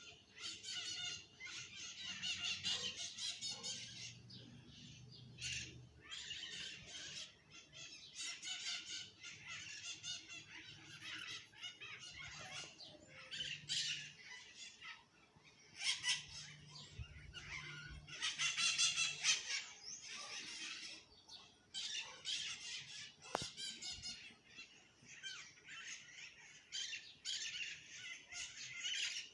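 A group of birds chirping and chattering together, calls overlapping in busy bursts that rise and fall throughout.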